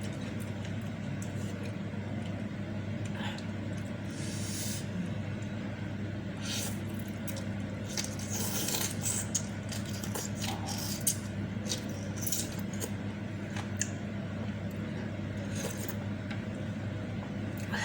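Close-up eating sounds of bakso meatball soup with noodles: chewing and slurping noises, with small clinks and scrapes of a spoon against the bowl, loosest in the middle stretch. A steady low hum runs underneath.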